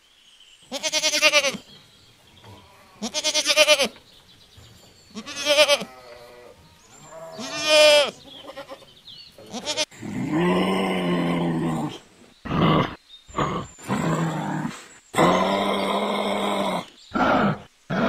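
Sheep bleating: four separate quavering bleats about two seconds apart. About ten seconds in, these give way to longer, lower calls.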